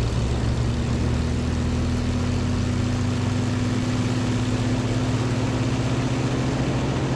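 Pitts Special's propeller engine running at part power early in the takeoff roll: a steady drone whose pitch creeps up slightly as the plane gathers speed.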